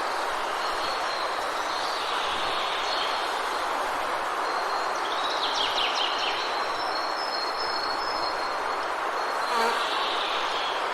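Forest ambience: a steady, even hiss with small birds chirping over it, most of the chirps in a cluster about halfway through, and a thin high steady tone.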